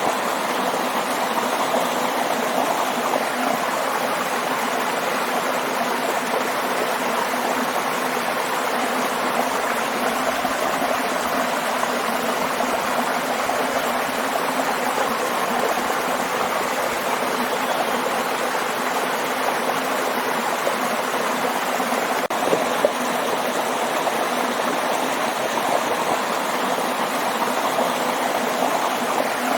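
Waterfall: steady rushing and splashing water without a break.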